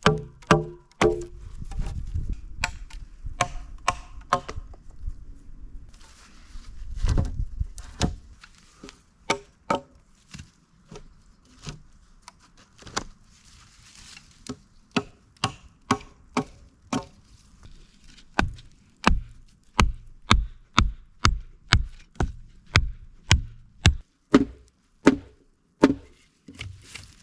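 Wood being chopped by hand, a long run of sharp separate strikes. They come irregularly at first, then settle into a steady pace of about one and a half strikes a second in the second half.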